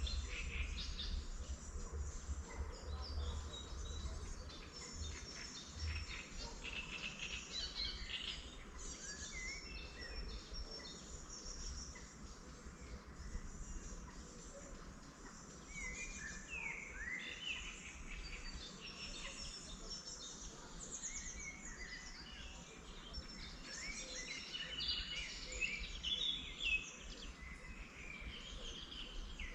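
Several wild birds singing and calling at once in a spring chorus: many short, quick chirps and trills, some rising and falling in pitch. A low rumble runs under the first few seconds.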